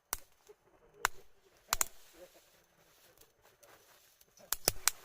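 Campfire wood crackling, with sharp pops: one about a second in, a pair just before two seconds, and a quick cluster of three near the end.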